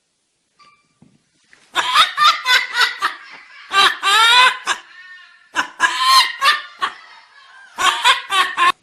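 A pet parrot giving a string of short laughing calls, mimicking human laughter, in several bursts after about a second and a half of silence.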